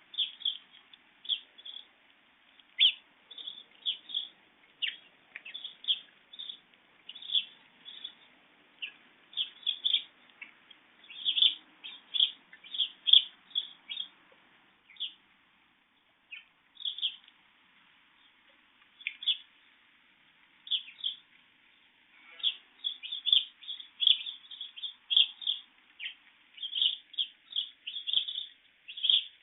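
Birds chirping: many short, high chirps, often in quick clusters, thinning out for a few seconds around the middle.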